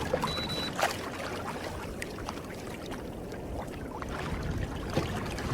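Water lapping and trickling against a kayak, with a few faint clicks and one short high beep about half a second in.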